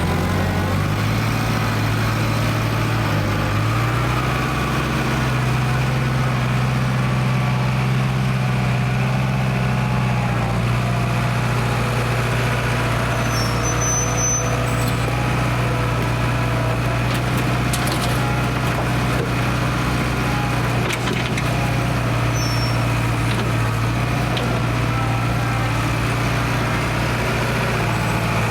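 Diesel engine of an International 270A backhoe running steadily after its injection pump repair; its speed picks up slightly in the first few seconds, then holds.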